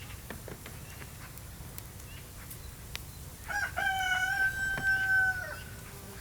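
A rooster crowing once: one long call of about two seconds starting just past halfway, preceded by a few faint clicks.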